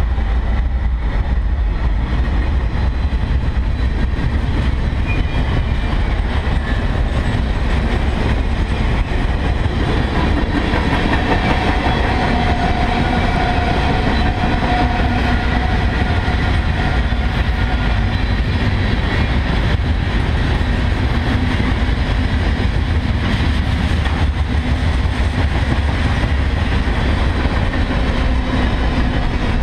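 Norfolk Southern freight train rolling past at close range: the last locomotives at first, then a long string of tank cars and covered hoppers, with a steady rumble and clatter of steel wheels on rail.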